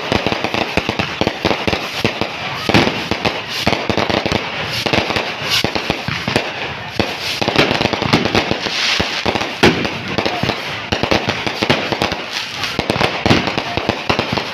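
Fireworks going off in a dense, unbroken barrage of bangs and crackles, many in quick succession.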